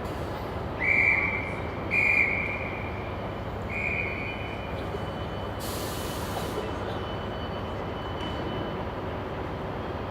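Several short, shrill whistle blasts, the kind blown to dispatch a train, over the steady hum of a station with trains standing. A brief burst of hissing air follows midway, like a train's air brakes releasing.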